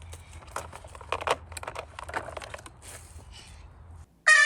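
Toys being handled: a run of small clicks, taps and rustles. Near the end the sound cuts out and a loud held tone with several pitches starts suddenly.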